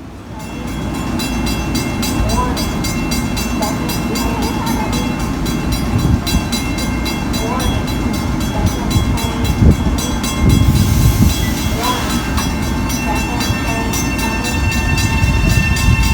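Train passing through the station: a loud low rumble with steady whining tones and a fast, even clicking.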